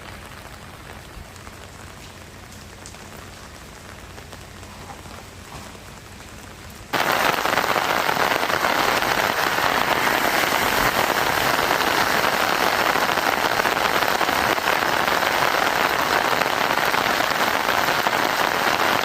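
Heavy rain falling as a steady hiss. About seven seconds in it jumps suddenly to a much louder, denser downpour.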